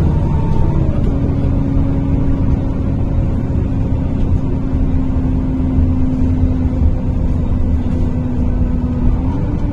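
NefAZ-5299 city bus running under way, heard from inside the cabin: a steady low engine and drivetrain drone with a held whine that drops slightly about a second in and rises again near the end.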